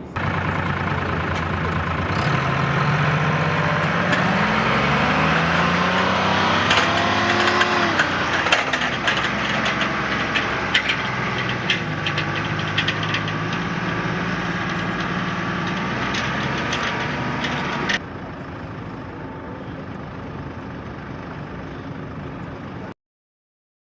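An engine running, its pitch rising and then falling over several seconds, with scattered sharp clicks. About 18 seconds in it cuts to a quieter, steadier sound.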